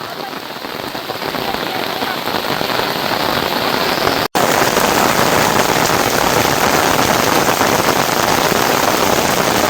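Steady heavy rain falling, a dense even hiss that grows louder over the first few seconds, breaks off for an instant about four seconds in, then carries on louder.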